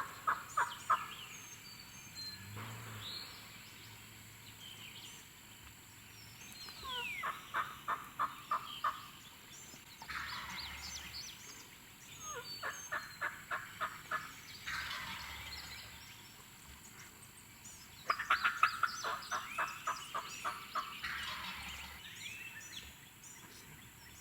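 Turkey yelping: four runs of quick, evenly spaced notes, each run lasting about two seconds, with softer calls between them.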